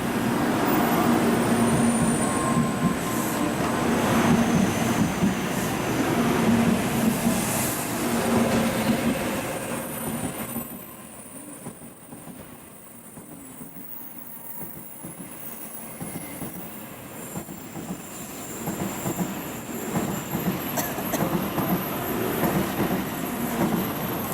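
N700 series Shinkansen train running and accelerating on the rails, a loud rumble with a faint steady hum. About eleven seconds in the sound drops off sharply, then builds again toward the end.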